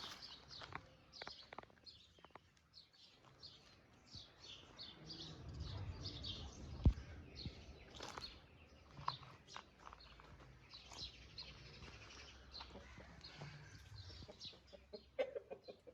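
A flock of young chicks peeping, a dense run of short high chirps, with a single sharp knock about seven seconds in.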